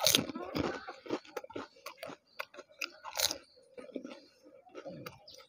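A fuchka (panipuri), a crisp fried puri shell dipped in spiced water, being bitten and chewed with the mouth close to the microphone. The shell breaks with a loud crunch at the start, then goes on crackling in sharp crunches while being chewed, with another loud crunch about three seconds in.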